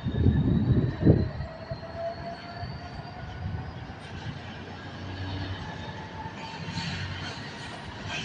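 Train on the line: a heavy rumble with loud wheel-on-rail knocks in the first second, then a quieter steady run under a thin whine that slowly rises in pitch.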